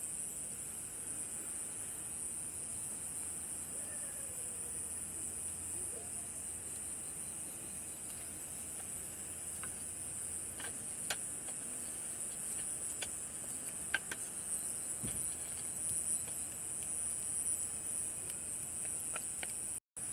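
Night insects singing in a steady high-pitched chorus, with scattered crackles and pops from a campfire in the second half. The sound cuts out for a moment near the end.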